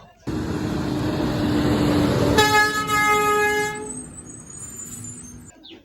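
Truck engine rumble that starts suddenly, with one long horn honk about two seconds in lasting over a second. The rumble then fades away under a faint high whine.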